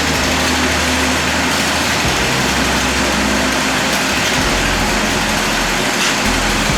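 A steady engine running, with a low hum that shifts in pitch under loud, even noise.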